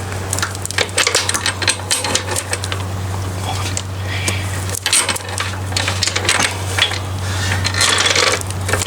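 Metal links of a new motorcycle roller chain clinking and rattling in a quick, irregular run of small clicks as the chain is fed around the sprocket, over a steady low hum.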